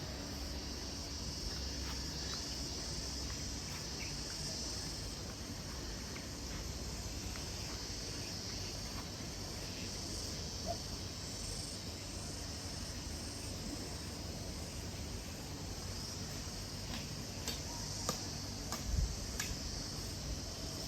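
Steady, high-pitched trilling of insects in a tropical garden. A few faint clicks come near the end, one with a soft low thump.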